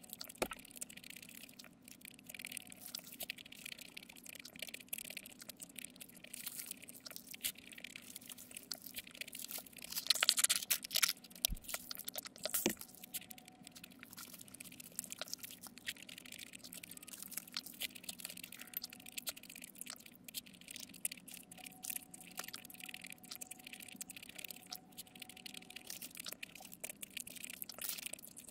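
Close-miked eating of a burger and fries: a steady run of soft wet chewing and mouth clicks, with a louder crackly crunch about ten seconds in.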